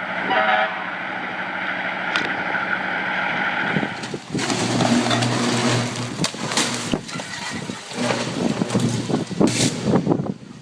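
Norfolk Southern train running: a steady mechanical rumble for about four seconds, then a rougher, louder stretch with repeated knocks and clanks.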